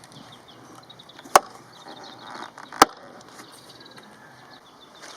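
Two sharp, loud knocks or strikes about a second and a half apart, over faint high chirping.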